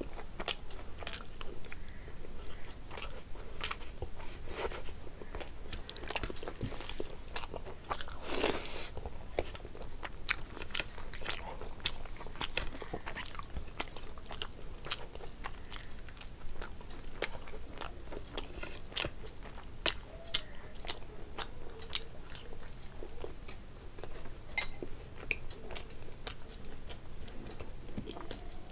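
A person chewing and biting mouthfuls of roast chicken and curry rice eaten by hand. It is a close, continuous run of sharp mouth clicks and crunches.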